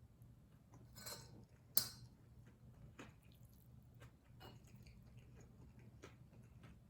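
Close-miked chewing and mouth sounds of someone eating kimchi fried rice, with small scattered clicks. A short rustle comes about a second in, and a single sharp click just under two seconds in is the loudest sound.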